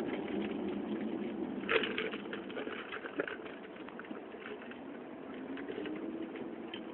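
Steady low rumble of a Chevrolet Camaro SS's V8 engine and road noise heard inside the moving car's cabin, with a sharp knock about two seconds in and a lighter one a second later.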